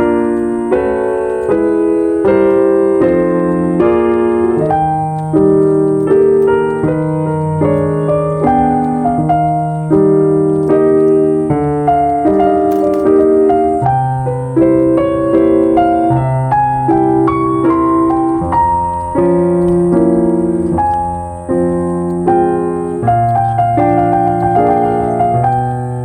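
Background piano music: a continuous melody of struck notes and chords, each left to ring and fade.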